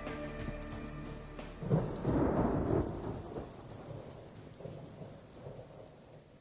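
Rain falling steadily, with a rumble of thunder about two seconds in; the rain then fades out gradually.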